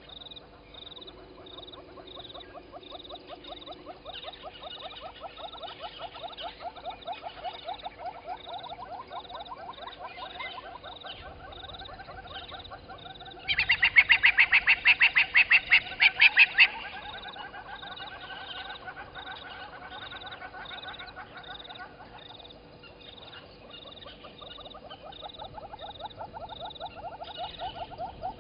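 Frogs calling at a waterhole before dawn: overlapping rapid pulsing trills, with a steady high tick repeating about twice a second. Around the middle, a louder, higher call of about a dozen quick pulses lasts some three seconds.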